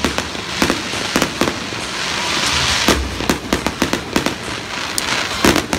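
Fireworks display: a rapid, irregular string of sharp bangs from bursting shells, with a stretch of crackling hiss about two seconds in.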